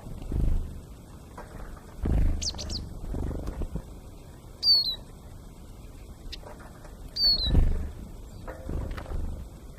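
Two short, high bird calls, each falling in pitch, about halfway through and again near three-quarters of the way. Several loud low thuds and rustles come between them.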